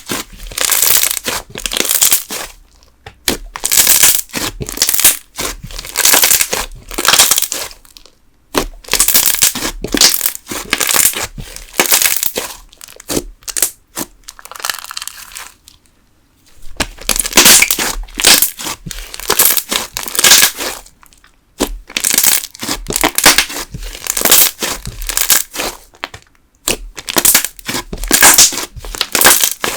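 Thick candle slime being kneaded, stretched and pressed by hand, giving loud crackling bursts of small air-bubble pops in repeated squeezes with brief pauses between them.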